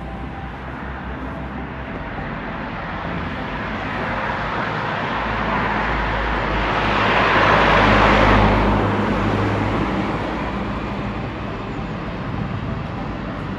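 A road vehicle passing close by: tyre and engine noise grows over several seconds to a peak about eight seconds in, with a low engine rumble, then fades away.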